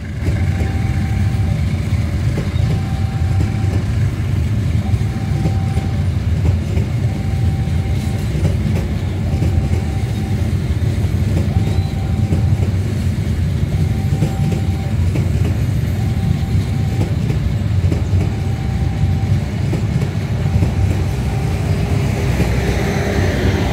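Passenger train rolling past close by, a steady heavy rumble of wheels on rails. Over it, the level crossing's warning signal sounds a short tone about every two seconds.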